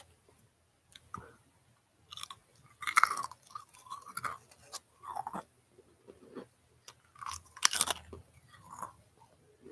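Close-up chewing of crunchy veggie chips, in uneven bites. The two loudest crunches come about three seconds in and again near eight seconds, with softer chewing between.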